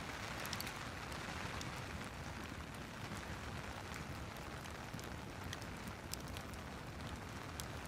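Steady rain hissing together with a crackling fireplace, its small pops and snaps scattered at irregular moments.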